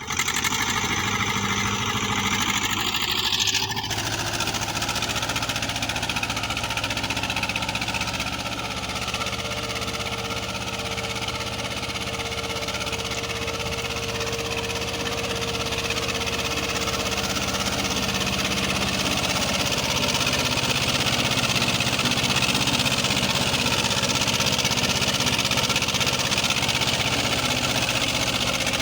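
HMT 2511 tractor's diesel engine running steadily, with a sudden change in its sound about three and a half seconds in.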